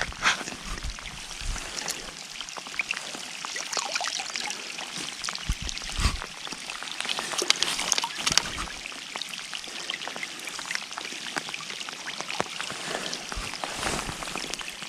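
Water trickling and splashing, with many small irregular splashes and drips.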